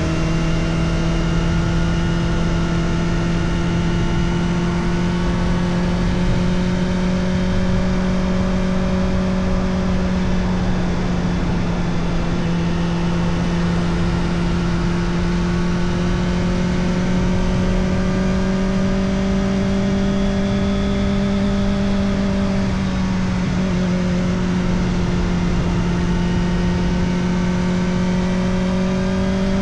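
Kawasaki Ninja ZX-4RR's 399 cc inline-four running through an Arrow Indy Race Evo titanium exhaust with the dB killer fitted, at a steady pitch that rises slowly as the bike gathers speed, with a brief dip about two-thirds through. A steady rush of wind and road noise lies under it.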